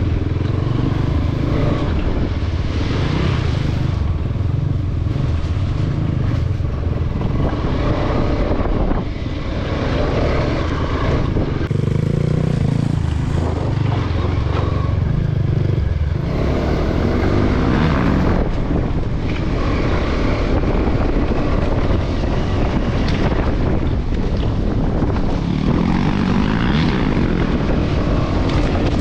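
Off-road motorcycle engine running on the move, its pitch rising and falling now and then as the throttle changes, over a heavy low rumble.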